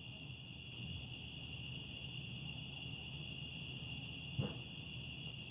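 Steady, high-pitched cricket chorus over a low rumble, with one brief soft sound about four seconds in.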